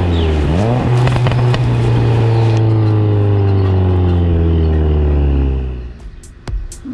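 Subaru WRX's turbocharged flat-four through an aftermarket exhaust: a quick rev just under a second in with a few crackles, then the revs slowly winding down until the sound fades out near the end.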